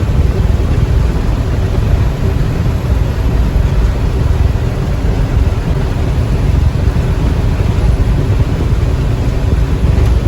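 Steady in-cab road noise of a Freightliner box truck cruising on a rain-wet highway: a low, even rumble of the diesel engine and tyres with a hiss of water spray.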